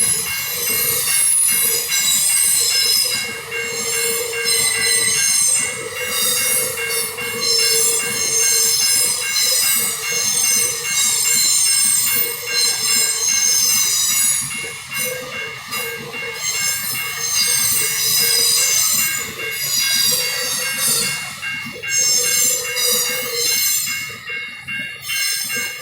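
Empty iron-ore train of GDT gondola wagons rolling past, the wheels squealing in high-pitched waves that swell and fade every second or two over the running noise of the wagons and a regular clicking of the wheels.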